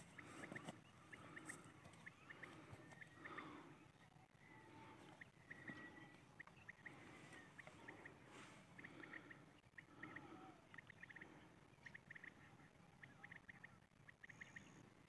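Faint birds calling: clusters of short, quick, high chirps repeating over and over, with softer low notes recurring about once a second underneath.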